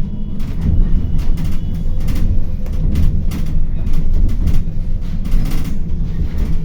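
City bus running, heard from inside the passenger cabin: a steady low engine and road rumble with frequent irregular rattles and knocks.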